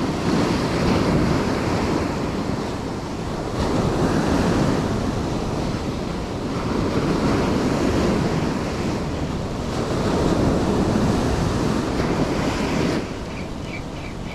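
Ocean surf washing onto the beach, swelling and easing every few seconds, with wind buffeting the microphone. Near the end a quick run of short high chirps.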